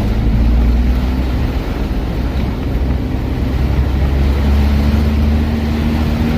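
Car driving through typhoon winds: the engine runs steadily under a loud low rumble of storm wind and rain noise battering the car, with a steady engine hum coming up about four seconds in.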